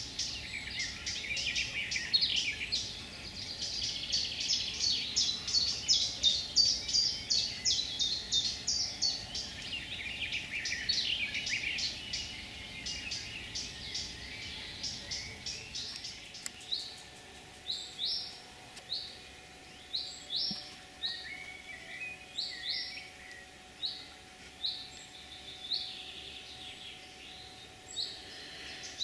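Woodland birdsong: for about the first half several birds sing at once in a dense run of rapid high notes. It then changes to a single bird repeating a short high call roughly once a second.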